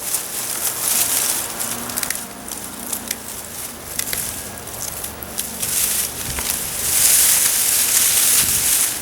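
Sweet potato vines and leaves rustling and crackling as they are handled and cut back, with scattered sharp clicks; the rustling grows louder about seven seconds in.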